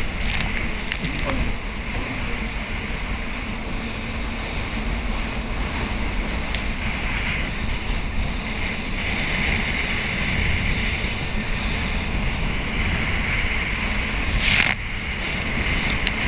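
Jet ski running steadily over open water, its engine drone mixed with water rush and wind buffeting the microphone. A brief loud rush comes near the end.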